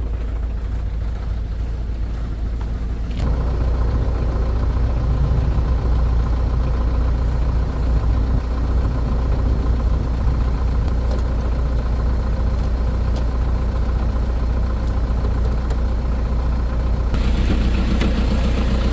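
Truck engine idling steadily, becoming louder and fuller about three seconds in, with added higher-pitched noise near the end.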